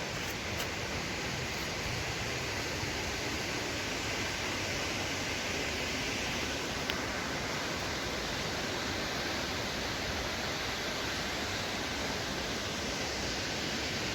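Waterfall's falling water making a steady, unbroken rushing hiss.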